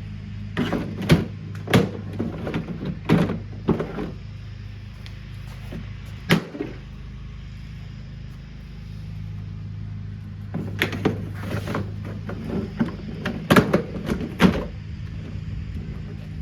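Plastic parts of a portable washing machine knocked and clattered as it is pried apart, in two bursts of sharp knocks with a single knock between them, over a steady low hum.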